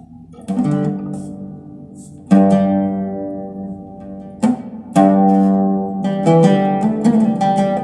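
Instrumental introduction of a song on a plucked string instrument: ringing chords struck about half a second, two seconds and five seconds in, each left to fade, then a quicker run of notes near the end.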